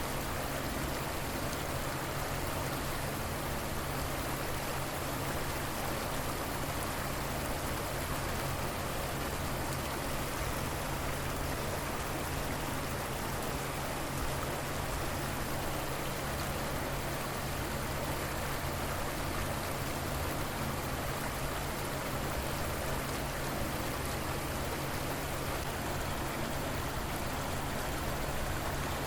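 Steady, even rush of river water flowing.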